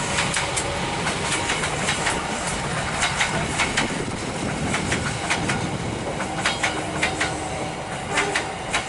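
Passenger train coaches rolling past at speed, a steady rumble broken by many sharp clacks of the wheels over the rail joints.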